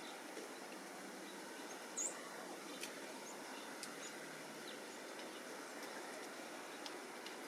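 Small songbirds at a feeder giving a few short, high chirps, the loudest about two seconds in, with a few faint sharp ticks, over a steady outdoor background noise.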